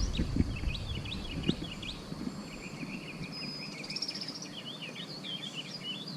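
Songbirds chirping: many quick repeated chirps, with a couple of short high whistled notes about halfway through, over a steady outdoor background hiss.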